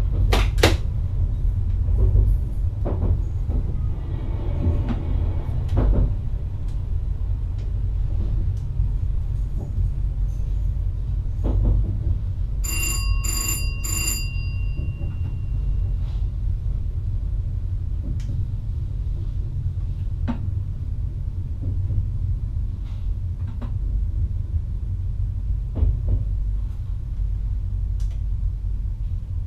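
Inside the driver's cab of an NS VIRM double-deck electric train running along the line: a steady low rumble with scattered knocks and clicks from the track. About 13 seconds in, a bell rings three quick times, the last stroke ringing on for a couple of seconds.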